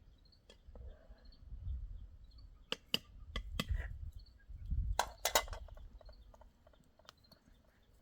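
A few sharp knocks and clinks, grouped around three seconds in and again around five seconds in, over faint, short, high chirps that repeat throughout.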